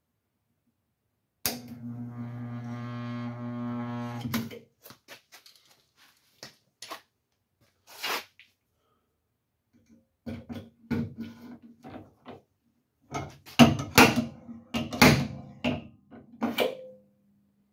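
Stud-welding dent puller (stinger) working on a truck's bare-steel box side. It buzzes steadily for about three seconds, then gives a quick series of sharp clicks and metallic knocks as the dent is pulled.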